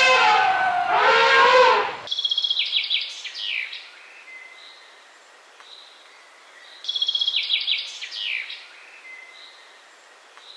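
A songbird singing two phrases, each a quick high trill running into a few downward-sliding notes, about four and a half seconds apart. In the first two seconds, a louder pitched animal call falls in pitch and cuts off abruptly before the birdsong.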